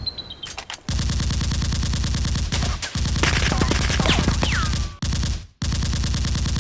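Rapid automatic gunfire sound effect, two long bursts of evenly spaced shots with a short break about five seconds in, and a brief falling whine in the middle of the first burst.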